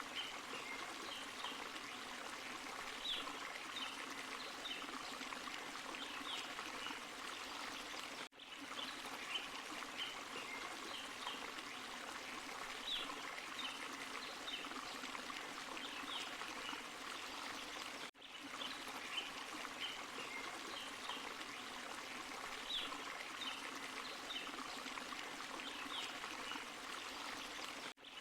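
Steady rushing and splashing of a small forest waterfall and stream, with short high notes scattered through it. The sound cuts out for an instant about every ten seconds, where the same short recording starts over in a loop.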